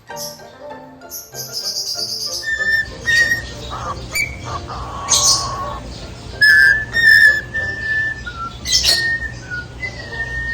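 Pet cockatiels whistling and chirping: a run of short whistled notes at nearly the same pitch, some sliding down, mixed with harsher chirps and calls, over a steady low hum.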